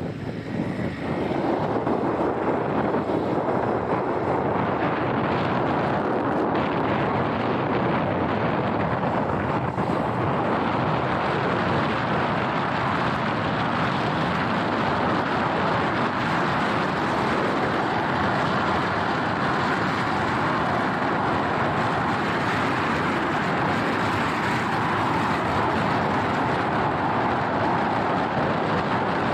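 Steady rush of wind and road noise from a motorbike being ridden along, with no distinct engine note standing out.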